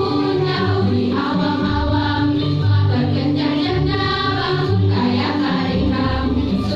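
Choir singing a song, several voices holding notes in harmony over a low bass line.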